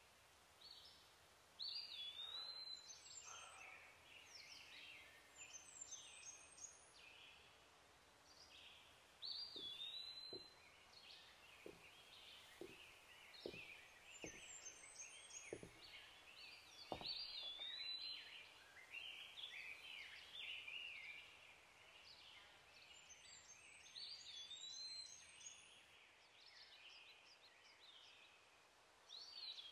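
Faint birdsong: several birds chirping, with one short whistled phrase that rises then falls repeated every few seconds. Through the middle comes a run of about eight soft knocks, roughly a second apart.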